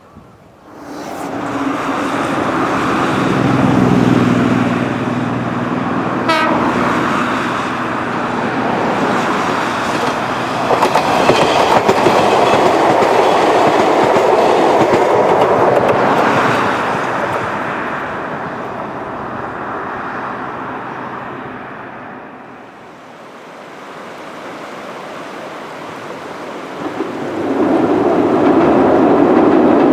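Chichibu Railway 5000 series electric train, a former Toei Subway 6000 type, running on the line with rail clatter. There are steady low tones in the first few seconds and a brief falling tone about six seconds in. The train dies down somewhat past the middle and grows loud again near the end.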